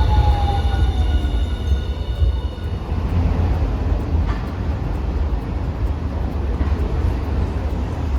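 Hiroshima streetcar on the move: a high squealing whine of several tones, one sliding down in pitch, fades out about three seconds in, leaving a steady low rumble.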